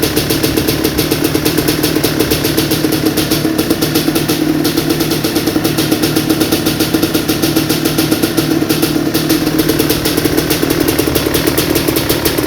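1995 Kawasaki KX250's single-cylinder two-stroke engine running at a steady speed, with no revving.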